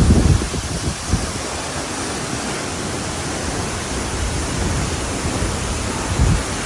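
A waterfall rushing, a loud steady roar of falling water. Low rumbles of wind on the microphone come through right at the start and again near the end.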